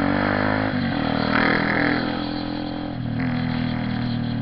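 Honda CB 300R single-cylinder motorcycle engine running under way, with its note dipping briefly twice. A short burst of hiss sounds a little over a second in.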